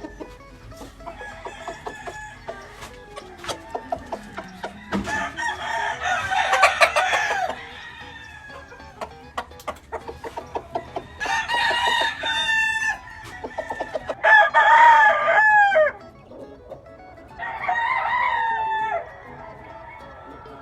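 Gamefowl roosters crowing, four long crows in turn, with short clucks and calls between them.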